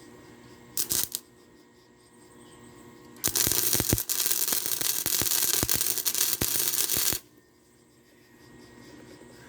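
Arc welding on steel pipe: a short burst of weld crackle about a second in, then a crackling weld run of about four seconds that cuts off abruptly.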